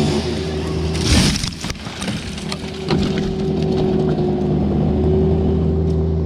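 Engine running steadily at a constant speed, with a short crashing rush about a second in.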